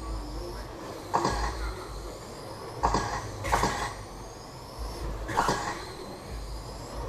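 Electric RC race trucks running on the track: high motor whines rising and falling as they accelerate and brake, with short bursts of tire and chassis noise every second or two.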